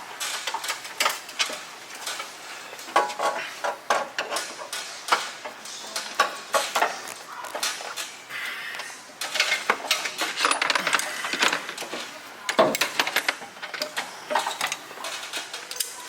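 Metal hand tools and metal parts clinking and clanking irregularly while bolts are fitted and tightened.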